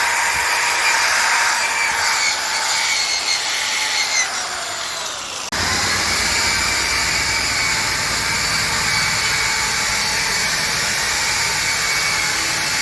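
An electric machine motor running with a steady whine. About four seconds in its pitch falls as it winds down, then it cuts off abruptly and a different steady machine noise with more low rumble takes over.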